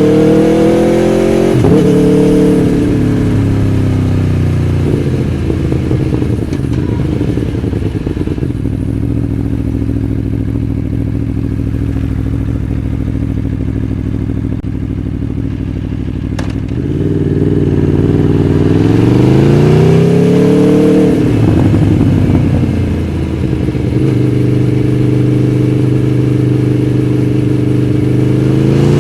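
Aprilia Tuono V4 1100 Factory's V4 engine riding in stop-and-go traffic. It revs up and shifts, then eases off to a long steady low-rev stretch. About two-thirds of the way through it pulls away again, drops back to a steady low drone, and rises once more near the end.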